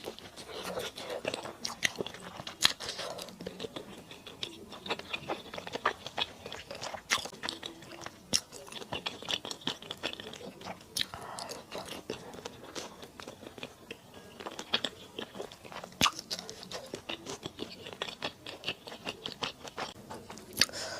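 Close-miked chewing and biting of spicy mala duck, with many sharp crunches and mouth clicks, stopping abruptly at the end.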